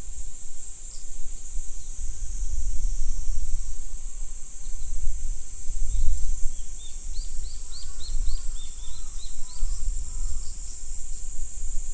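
Steady high-pitched insect chorus, with a quick run of short bird chirps about halfway through, and a low rumble underneath.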